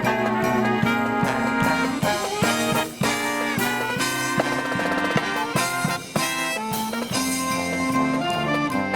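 Marching brass band playing a Christmas medley: trumpets, trombones and saxophones in held chords over regular drum strokes.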